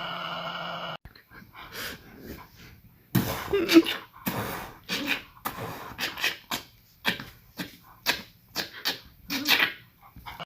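A dog huffing in a series of short, noisy breaths, about two a second, the loudest near the start of the run. A steady sound from the clip before cuts off about a second in.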